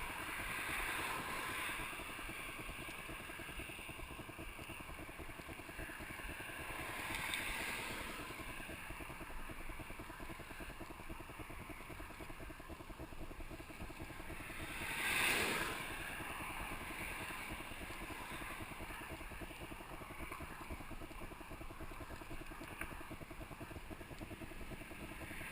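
Steady rolling noise of a mountain bike ride picked up by a GoPro microphone: tyres and wind rushing, with a brief louder swell about halfway through.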